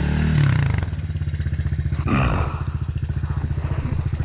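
Dirt bike engine idling steadily with a rapid, even pulse. In the first second another engine revs up and falls back, and there is a short rush of noise about two seconds in.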